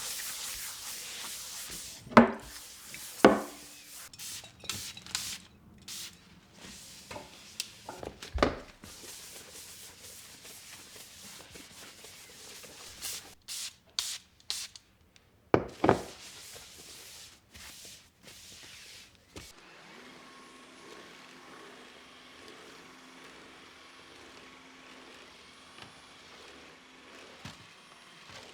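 Scrubbing and rubbing on a hard surface, a cleaning brush or cloth working, with a few sharp knocks. After about 20 s it stops and a faint steady hum remains.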